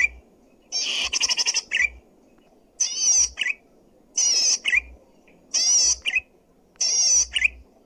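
Zitting cisticola (cici padi) singing: five short bursts of rapid, high, wavering notes, each ending with a brief lower note, repeated about every second and a half with quiet gaps between.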